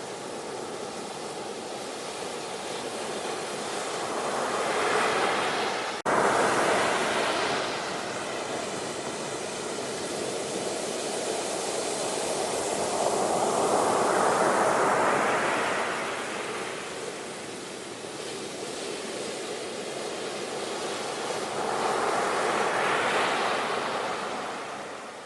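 Ocean waves breaking and washing ashore, rising and falling in slow swells several seconds apart, with an abrupt jump in level about six seconds in.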